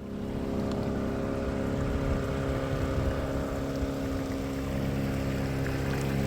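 Small canal cruiser's engine running steadily at cruising speed.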